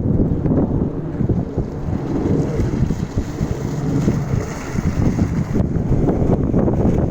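Wind buffeting the microphone in a snowstorm: a loud, steady, low rumble.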